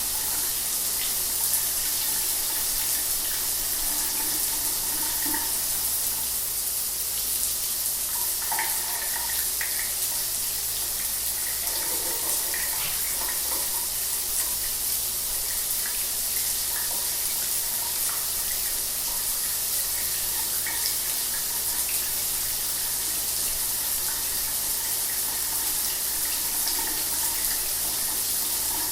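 Shower running steadily: a constant, even hiss of falling water spray, with no breaks or changes.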